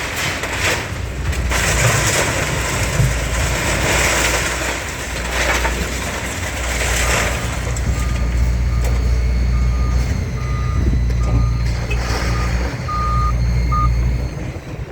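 A heavy diesel vehicle running with a steady low engine rumble, with louder noisy stretches in the first half. About halfway through its reversing alarm starts, a single-pitch beep repeating roughly once a second as it backs up.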